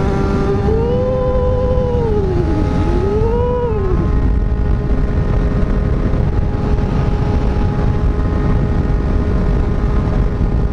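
Kawasaki sport motorcycles' inline-four engines running at speed under heavy wind rush, with a steady engine note throughout. In the first few seconds an engine revs up and back down twice.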